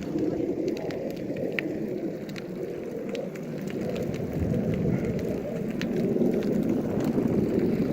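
Wind buffeting the microphone of a camera on a moving bicycle: a dense, fluttering rumble, with scattered small clicks and ticks throughout.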